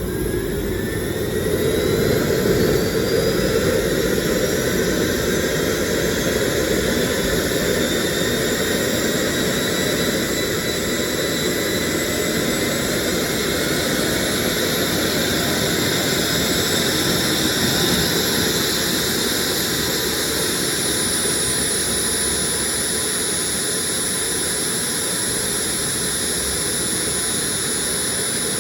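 Turbojet engine running during a start test. Its whine climbs in pitch over the first several seconds as it spools up, then holds at a steady pitch over a loud rushing noise. A thin, very high tone joins about two-thirds of the way through.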